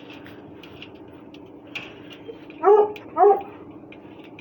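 Russian hound giving two short yelping barks in quick succession about two and a half seconds in, over a faint steady hum.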